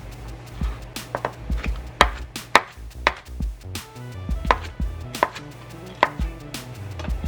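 A knife cutting cooked chicken: about eight irregular sharp knocks of the blade striking the surface underneath.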